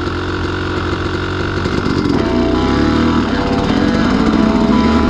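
Dirt bike engine pulling in low gear, with the revs and loudness rising from about two seconds in as the rider powers along a slick, muddy line.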